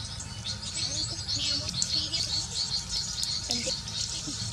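Many small birds chirping and twittering in a rapid, dense, high-pitched chatter, over a steady low rumble.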